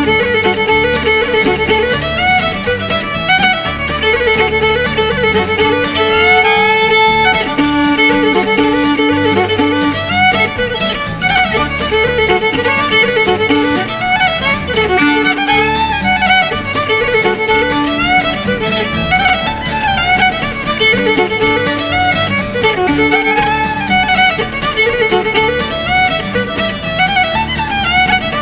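Fiddle playing a fast Irish jig in a stream of quick running notes, over a steady rhythmic accompaniment.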